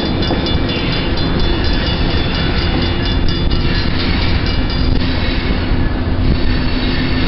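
Freight train of flatcars loaded with concrete railroad ties rolling past with a steady low rumble, over a steady diesel locomotive hum.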